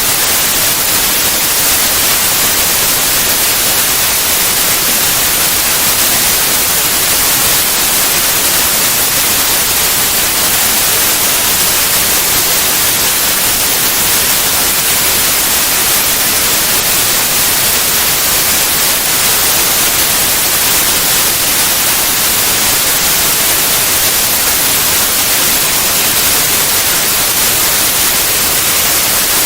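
Steady white noise: an even, unchanging hiss that is strongest in the high range.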